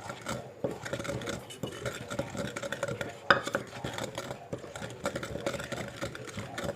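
Pestle pounding and a spoon scraping and clinking in a mortar as papaya salad is mixed with its seasonings: an uneven run of knocks and clinks, with one louder knock about three seconds in.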